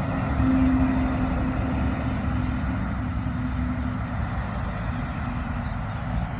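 Heavy truck driving past on the road: low engine rumble and tyre noise with a steady whine that fades out about two-thirds of the way through, the whole sound slowly getting quieter as the truck moves away.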